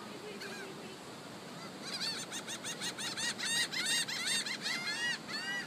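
A flock of gulls calling, many short high calls overlapping, getting much busier about two seconds in as the birds crowd in for food.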